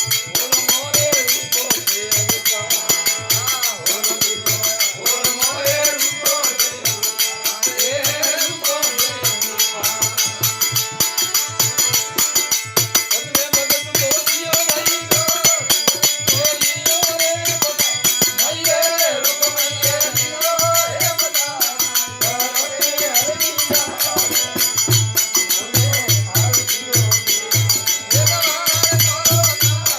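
Devotional aarti music: fast, steady jingling percussion like a tambourine over regular drum beats, with a wavering melody line running through it.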